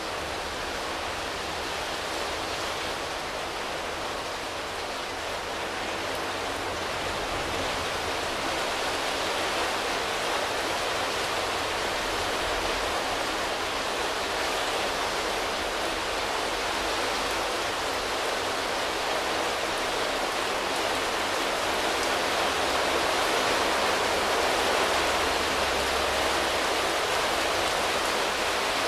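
Rain falling steadily on foliage, a dense even hiss of drops on leaves that grows gradually louder.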